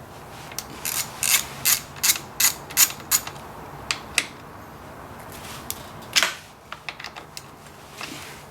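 Ratchet wrench clicking in short runs, about three clicks a second, with pauses between: bolts being worked loose to take off the dirt bike's brake caliper.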